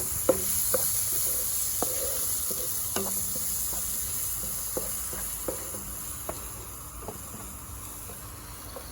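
Chopped onion, ginger, garlic and spices sizzling in a frying pan while a spoon stirs them, with scattered taps and scrapes of the spoon against the pan.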